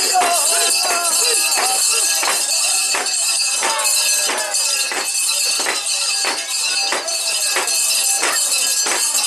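Mikoshi procession: a sharp, regular beat about every 0.7 seconds under constant metallic jingling, with the carriers' voices in the background.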